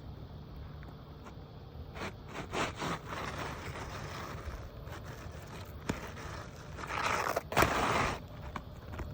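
Asphalt shingles being pried up and torn from their seal strip, scraping in a few rough bursts about two seconds in and a longer, louder one near the end. Mat transfer, where the shingle's mat tears off and stays stuck to the sealant, is the sign of a shingle that will not lift cleanly for repair.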